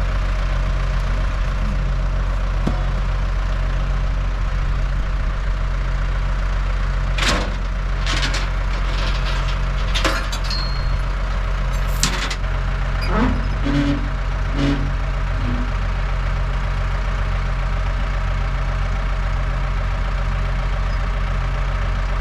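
A loader's engine idling steadily, with a run of sharp metallic knocks and clanks about a third of the way in, then a few short squeaks.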